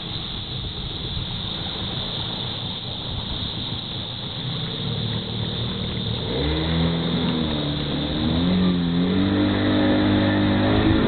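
A boat's motor running under a rough rush of wind and water. About six seconds in, its pitch shifts up and down, then holds steady.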